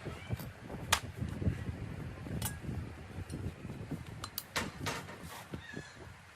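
Tools and metal parts being handled at a workbench: irregular sharp clicks and light knocks, several close together a little past the middle, over a low uneven rumble.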